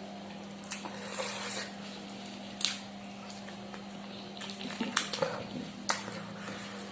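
Kitchen work: utensils and dishes clink sharply a few times, with a short splash of water about a second in, over a steady low hum.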